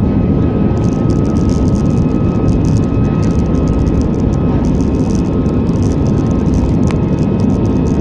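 Airliner's jet engines running during takeoff: a loud, steady roar with a thin, steady whine on top. A single sharp click about seven seconds in.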